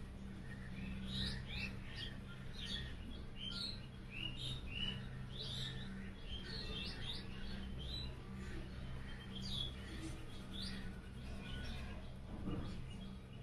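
Small birds chirping, many short quick calls one after another, over a steady low hum, with a soft knock near the end.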